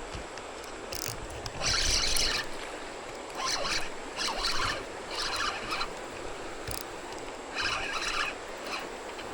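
Fishing reel being cranked in short ticking bursts, several times at irregular gaps, as a hooked bass is reeled in, over a steady creek hiss.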